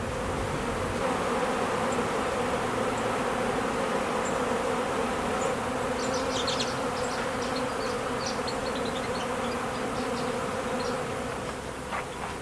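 Honeybees buzzing in a steady hum around the hives, a sign of robbing: bees from several colonies raiding each other's hives for sugar syrup.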